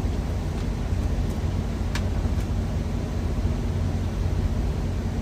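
Steady low hum of an idling truck engine, heard from inside the cab, with a light click about two seconds in.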